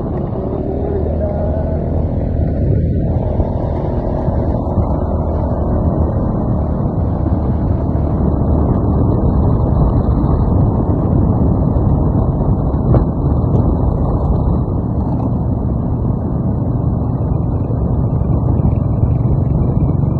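Onboard engine and road noise of a vehicle on the move: a steady low rumble and rush that grows a little louder after about four seconds.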